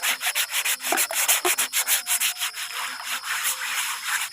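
Dirty cookware being scrubbed by hand with quick, repeated back-and-forth strokes.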